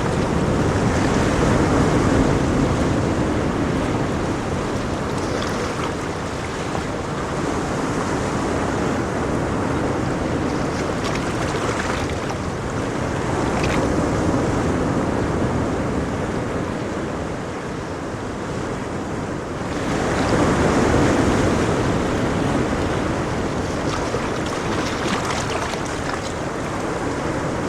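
Ocean waves breaking on a shore, a continuous rushing surf that swells and eases every few seconds.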